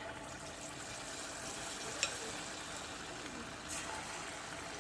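Marinated chicken pieces frying in hot oil in a kadai: a steady sizzle, with a fresh surge near the end as another piece is dropped in. A sharp click about two seconds in.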